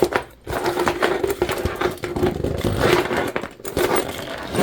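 Zipper being slid open on a jelly vinyl bag, with irregular scraping and rubbing as the stiff vinyl is handled.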